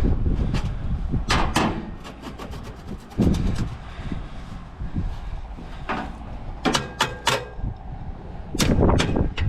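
Metal knocks and clanks from tools working on a combine's exhaust pipe, with a fast run of clicks about two seconds in and several sharp strikes near the end.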